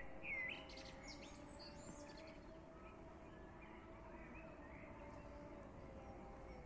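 Birds chirping and calling, with the louder sweeping calls in the first two seconds and scattered chirps after, over a faint steady hum and background noise.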